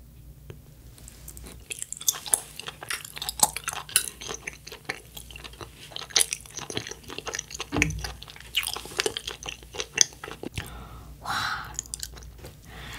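Close-miked chewing of a soft cherry mochi, with many small mouth clicks and smacks.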